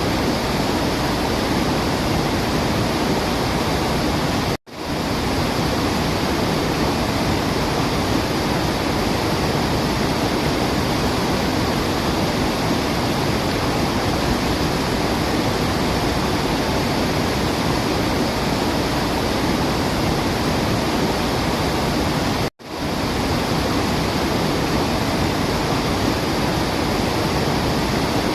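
Waterfall rushing steadily, an even roar of falling water with no birdsong standing out. It cuts out abruptly twice, about five seconds in and again past twenty seconds, swelling straight back each time, like the seam of a looped recording.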